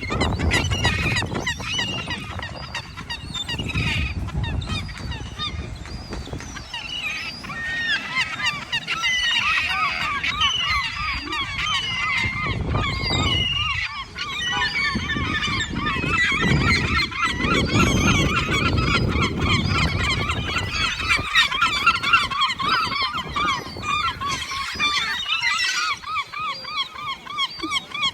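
A large flock of seagulls calling over one another, a dense, steady clamour of short squawks that thickens about a third of the way in, typical of gulls crowding for food. A low rumble comes and goes underneath.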